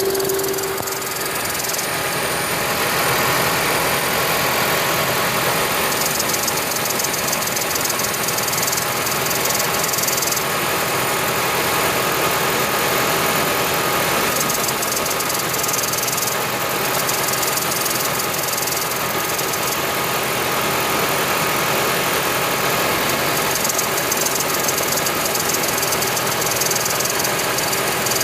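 2010 Toyota Prius's 1.8-litre four-cylinder engine running steadily with a hiss over it. The owner suspects the hiss comes from the EGR valve not closing completely.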